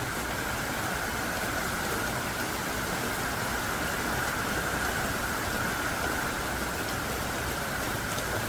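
Heavy rain pouring down steadily, a dense, even hiss of many drops with no let-up.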